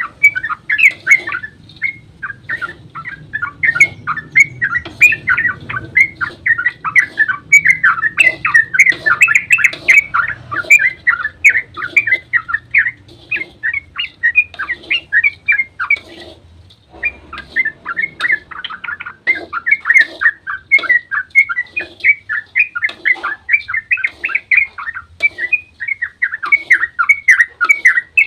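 Yellow-vented bulbul (trucukan) calling in a fast, unbroken run of short bubbly chirps, with one brief pause about seventeen seconds in.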